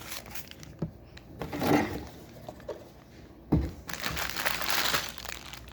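Handling noise from Lego building: loose plastic pieces clicking and knocking, with a heavier thump about three and a half seconds in and plastic rustling after it. A short pitched sound comes a little before the two-second mark.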